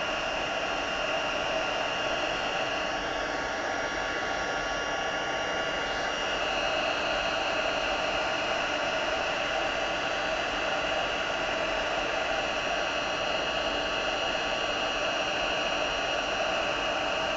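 Handheld embossing heat gun running steadily, a fan-driven blowing noise with a faint whine, as it melts clear embossing powder on a card.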